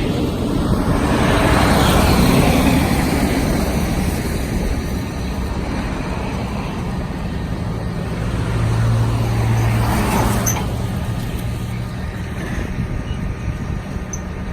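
Bucket truck's diesel engine running to drive the boom hydraulics while the boom is worked. It swells louder about two seconds in, and again from about eight to ten seconds in with a steady low hum.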